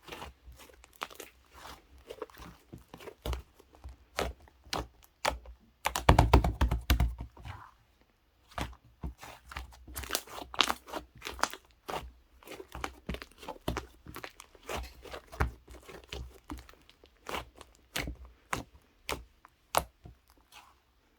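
Slime being squeezed, stretched and poked by hand, giving dense bursts of small crackling pops as trapped air bubbles burst, with a louder, fuller squish about six seconds in.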